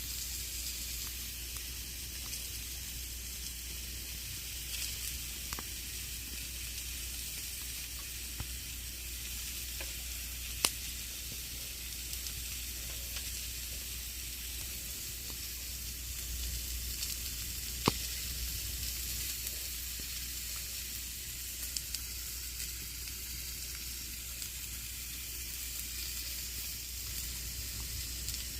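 Campfire burning with a steady hiss and scattered small crackles, and two sharper pops, one about ten seconds in and one near eighteen seconds.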